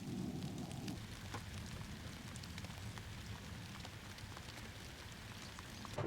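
Steady rain falling, with many small scattered drop ticks; a lower rumble underneath drops away about a second in.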